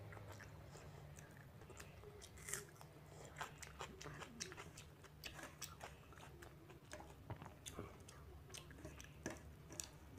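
Faint close-miked eating sounds: irregular wet clicks and smacks of chewing soaked rice, over a low steady hum.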